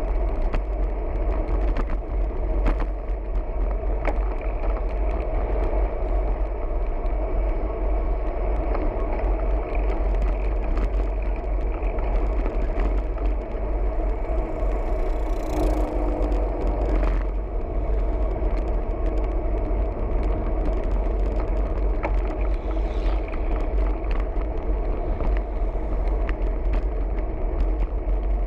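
Steady wind buffeting and road rumble on a camera riding along on a moving bicycle, with small rattling clicks over the road surface. A brief higher pitched sound comes in a little past halfway.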